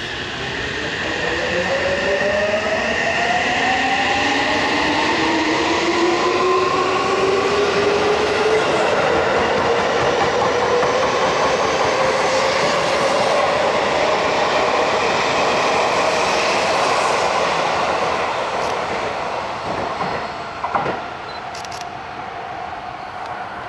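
Electric commuter train on the Seibu Ikebukuro Line pulling through the station, its traction-motor whine rising steadily in pitch over about ten seconds as it accelerates, over wheel and rail noise; it fades after about 19 seconds, with a single knock shortly after.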